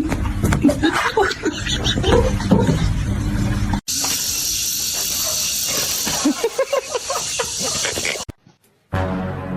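Voices and laughter with sharp noises, then, after an abrupt cut, a steady hiss with faint voices over it. The hiss cuts off suddenly near the end, and music begins.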